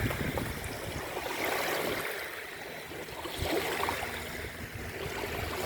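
Waves washing onto a beach, the water noise swelling and falling back about every two seconds, with a faint steady low hum underneath.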